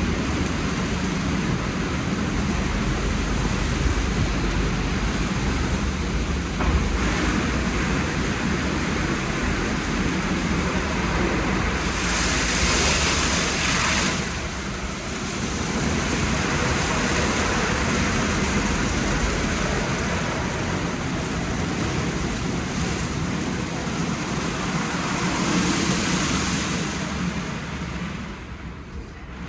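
WashTec SoftCare Pro gantry car wash running its wash programme: a steady rush of spraying water and machinery. A louder hiss comes in about twelve seconds in for two seconds, and the sound eases off near the end.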